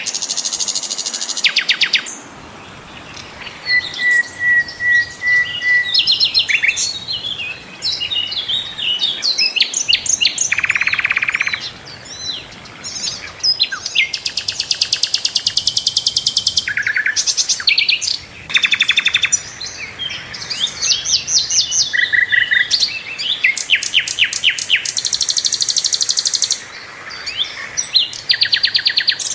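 Sikatan londo flycatcher singing a fast, varied song: rapid trills, high buzzy bursts and runs of short whistled notes, with brief pauses between phrases.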